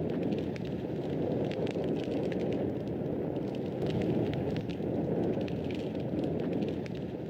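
Fireplace fire crackling: a steady low rush of flame with frequent small, sharp snaps and pops.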